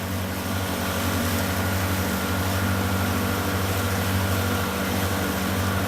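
Small boat's engine running steadily at cruising speed, with the hiss of water and wind around it.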